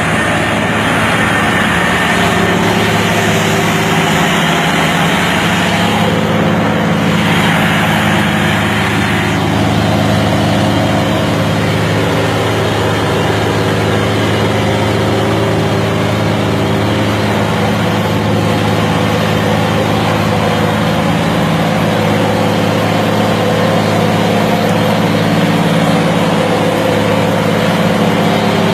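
Heavy vehicle engine running steadily: a deep, even drone with a broad hiss above it.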